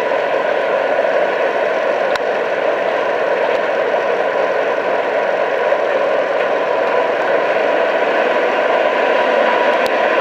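HVAC equipment running: a steady whir of moving air with a few steady hum tones, unchanging throughout, with two faint ticks.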